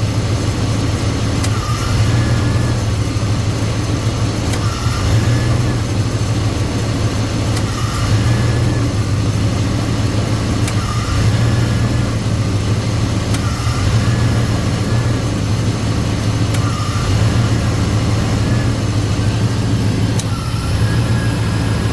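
Car engine idling while the A/C compressor clutch clicks in and out about every three seconds. The compressor is short-cycling while the system is still being charged with R134a refrigerant.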